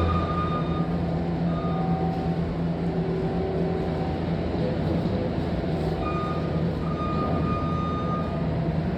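Tractor engine running steadily while it works feed, with short high-pitched squeals coming and going over it.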